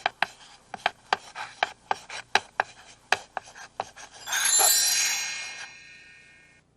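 Sound effects from a tape's opening logo: about a dozen sharp clicks at an uneven pace, then a bright shimmering chime that rings for about two seconds and fades away.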